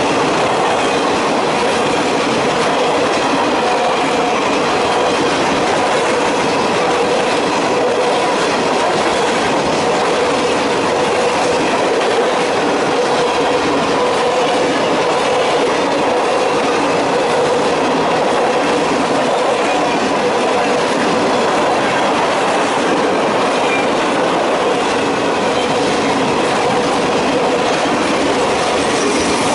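Freight train's cars (boxcars, covered hoppers and gondolas) rolling past close by: the steady, loud noise of steel wheels running on the rails, with a faint steady ringing tone underneath.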